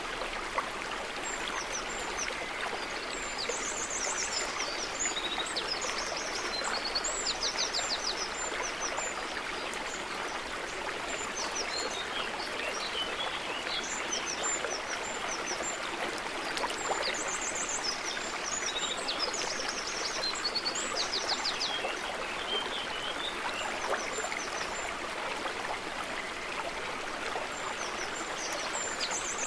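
A stream running steadily, with small birds chirping in short high runs on and off over the water.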